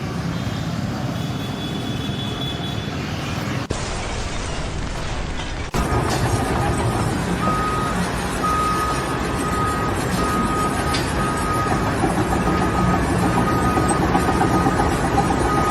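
A heavy vehicle's engine running steadily. From about six seconds in, a reversing alarm beeps roughly once a second.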